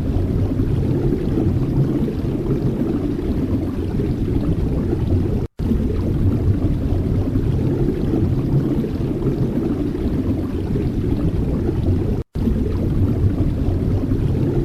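Wind buffeting the microphone: a steady low rumble that drops out for an instant twice.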